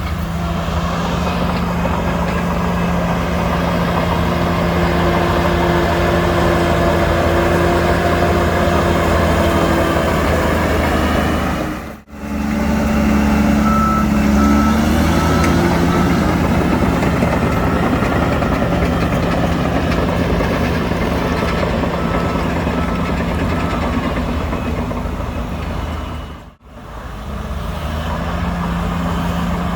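Heavy diesel earthmoving machinery running steadily under work. Partway through, a reversing alarm beeps in an even series. The sound drops out briefly twice.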